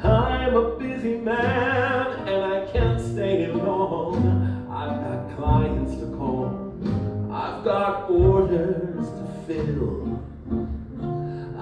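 A deep male voice singing a stage-musical number over a live band with bowed strings and bass.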